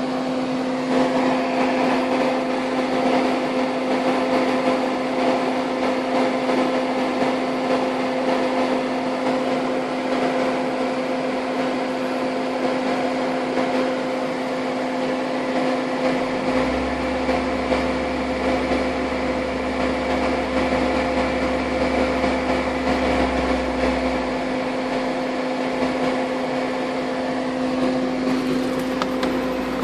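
Steady hum of a car engine running at idle with the evaporative (EVAP) canister purge valve tapping. A low rumble joins in about halfway through and drops away a few seconds later.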